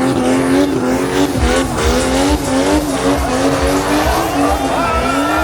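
Drift car engine held at high revs, its pitch wavering, with tires squealing and skidding. From about a second and a half in, a regular low thumping runs under it, roughly three beats a second.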